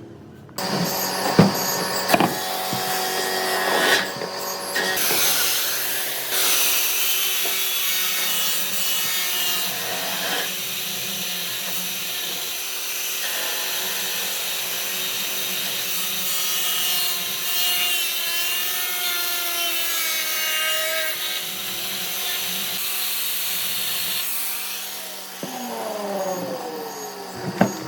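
Lathe spinning a wood and epoxy resin blank while a tool scrapes against the turning piece. It starts suddenly, runs steadily, and falls in pitch near the end as the lathe slows, with a sharp click just before it ends.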